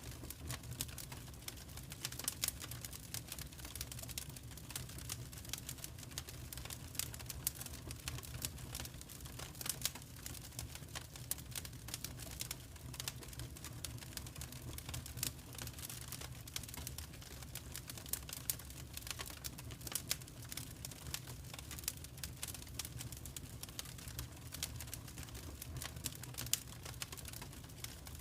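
Wood fire crackling in a fireplace: a dense, irregular scatter of sharp pops and snaps over a steady low rumble of burning.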